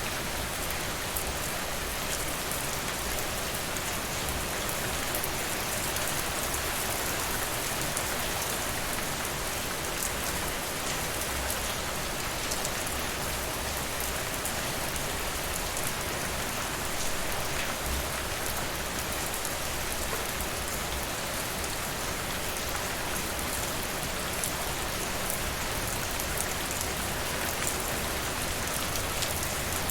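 Steady rain falling, an even hiss of drops, with faint sharp crackles of a wood fire scattered through it.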